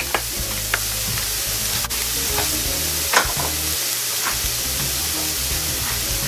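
Smashed ground-turkey patties sizzling steadily in a hot pan, with a few light knocks of a utensil, the clearest about three seconds in. Background music plays underneath.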